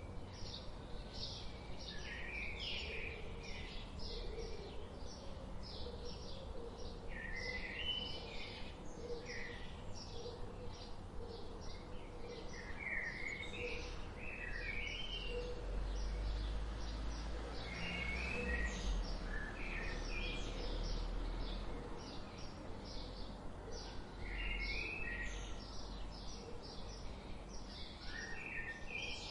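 Several birds chirping and singing together: a steady run of short high chirps, with a warbled, zigzagging phrase repeated every few seconds. A low rumble rises in the middle and fades again.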